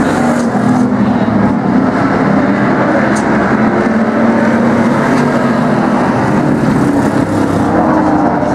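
A field of racing demo cars and trucks running laps together, their engines making a steady, dense drone whose tones rise and fall slightly as the vehicles pass.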